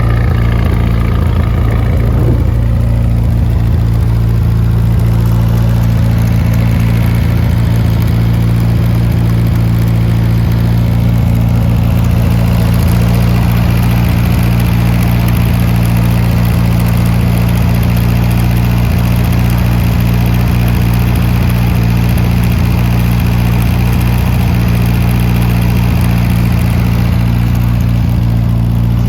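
1969 Adams Probe 16's engine idling steadily on its first run after more than 40 years dormant.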